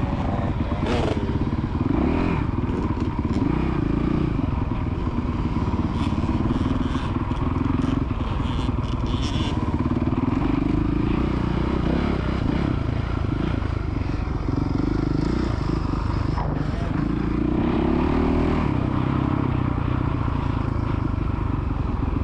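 Dirt bike engine running on a motocross track, its pitch rising and falling with the throttle, with scattered clicks and clatter.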